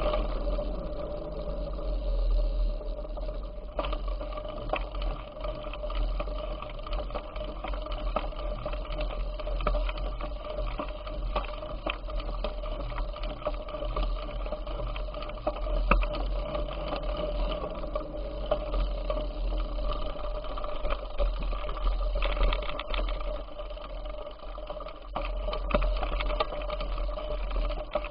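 Bicycle in motion: a steady mechanical whirr with a rapid rattling of ticks, over a low rumble of wind on the microphone.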